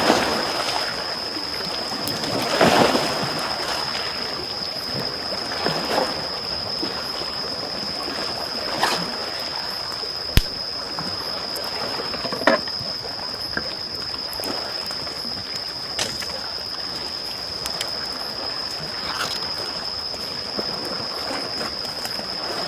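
Small waves washing and lapping on a shore, with a wood campfire crackling: the wash swells near the start, and scattered sharp pops from the burning wood come through, the loudest about ten seconds in. A steady high-pitched tone sounds throughout.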